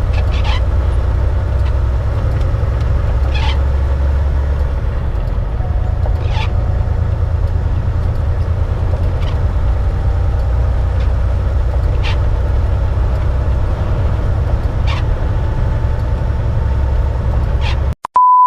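Semi truck on the road, heard from inside the cab: a steady low drone of engine, road and wind, with a short sharp sound repeating about every three seconds. Near the end the sound cuts out for a moment and a short steady beep follows.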